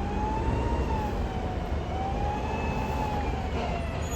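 Siren wailing, its pitch rising and falling slowly about twice, over the steady low rumble of the car.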